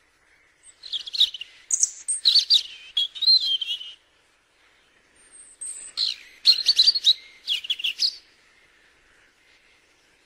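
Birdsong: two bursts of quick, high chirps and warbling phrases, the first starting about a second in and the second about five seconds in, over a faint steady background.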